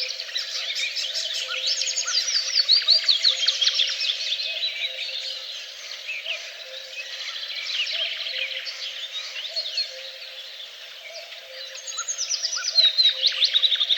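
Several birds singing at once in a dense chorus of chirps and trills. A louder phrase of rapid notes stepping down in pitch stands out about two seconds in, and again near the end.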